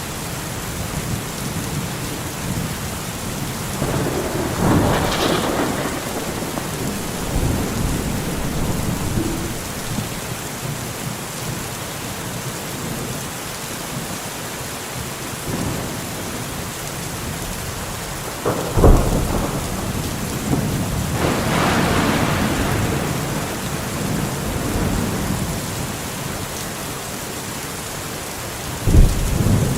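Steady rain with thunder. A rolling rumble comes about five seconds in, a sharp thunderclap near nineteen seconds is followed by a long roll, and another sharp crack comes near the end.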